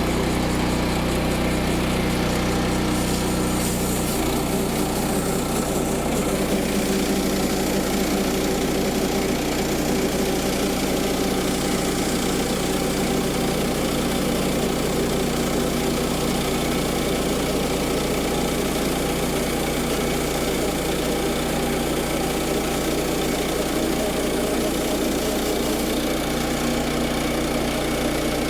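Gasoline engine of a Woodland Mills bandsaw sawmill running steadily just after a pull start, its tone shifting about four seconds in.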